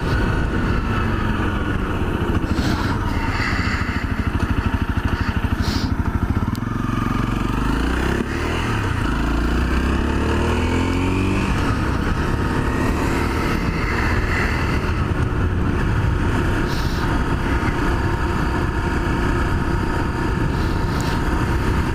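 Honda CRF250L's single-cylinder four-stroke engine running while riding, its pitch rising and falling several times with throttle and gear changes.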